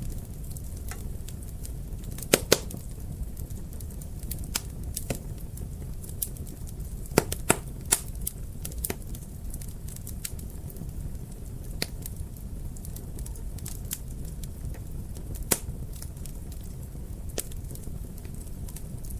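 Wood fire burning in a fireplace, a steady low rumble of flames with irregular sharp crackles and pops, the loudest a quick pair about two seconds in and a cluster around seven to eight seconds.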